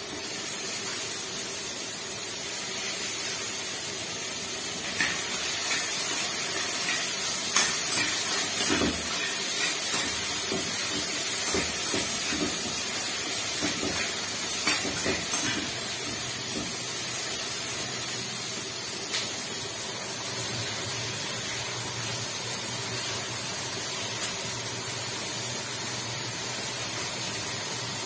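Garlic and other aromatics frying in hot cooking oil in a pan: a steady sizzling hiss, with several light clicks and knocks of a utensil or added ingredients against the pan in the first half.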